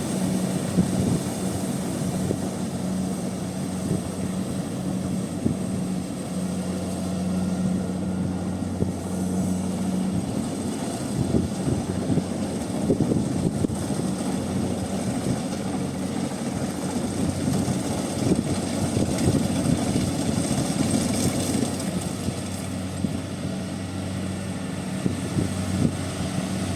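Rice combine harvester running steadily in the field, its engine drone mixed with a rough churning rattle from the working machinery that grows busier midway.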